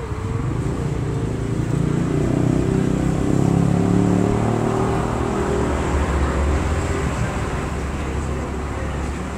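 A motor vehicle's engine running past in street traffic, growing louder toward the middle and then slowly fading.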